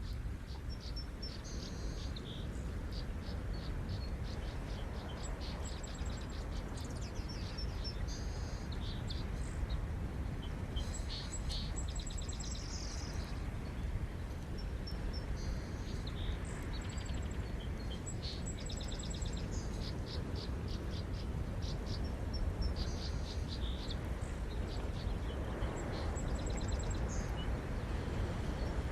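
Ocean surf running as a steady low rumble, swelling slightly near the end, with small birds chirping in quick repeated trills throughout.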